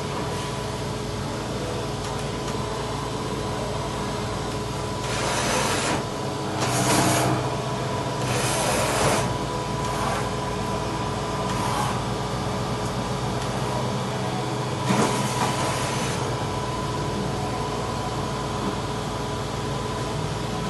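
Dah Lih MCV 1020BA CNC vertical machining centre running with a steady mechanical hum and several steady tones. Half a dozen short rushing noises rise over it and die away.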